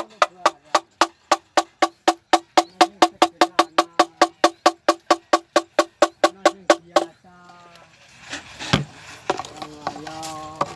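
A hollow wooden knocker used to scare birds, struck fast and evenly at about five knocks a second, each with a clear ringing pitch; it stops about seven seconds in. After that a person gives drawn-out calls, with a few scattered knocks.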